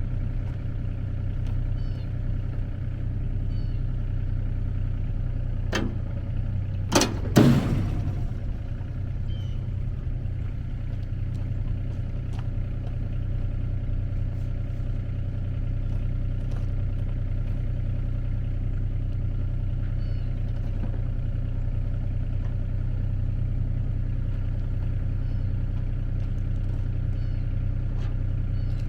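An engine idling steadily with a low, even hum, with a few sharp metallic clanks about six to eight seconds in.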